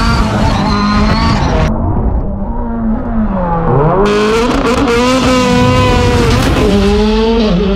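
Car engine pulling hard at high revs, its pitch dropping sharply and climbing back twice like gear changes. About two seconds in, the sound turns muffled for a couple of seconds.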